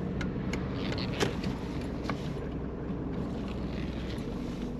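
Mercedes 190D diesel engine running steadily, with a few light clicks in the first two seconds.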